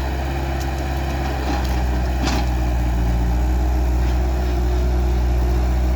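Skid steer engine running steadily, its note rising slightly about one and a half seconds in, with a short clank a little after two seconds.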